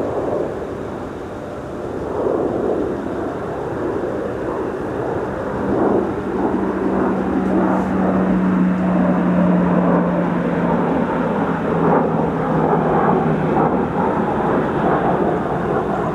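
Lockheed C-130 Hercules turboprop aircraft, its four engines running as it comes in to land. A steady tone appears about a third of the way in, sinks a little in pitch and stops near the end, while the overall sound grows louder in the second half.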